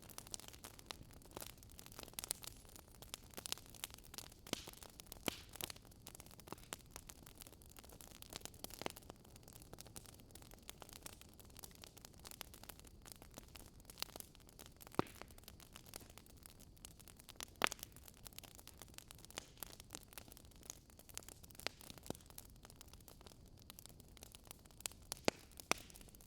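Fireplace fire crackling softly: irregular small pops and snaps over a low, steady hiss.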